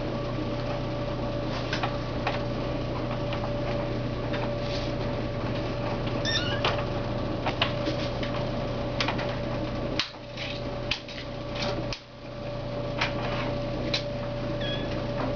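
Kittens at play: a few short, high kitten mews and scattered light clicks and taps, over a steady low hum.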